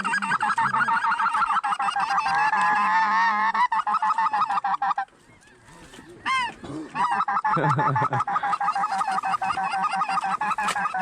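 Many geese honking at once in a dense, continuous chatter. It thins out about halfway through, leaving a single clear honk or two, then swells again.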